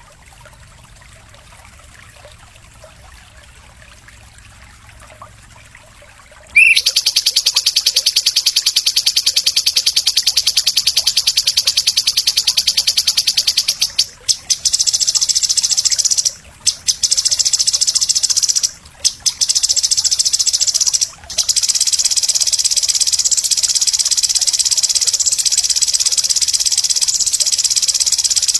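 Songbird-training (masteran) call: a loud, high, very fast buzzing trill starts about six and a half seconds in, breaks off briefly three times and runs on, after a few seconds of faint background.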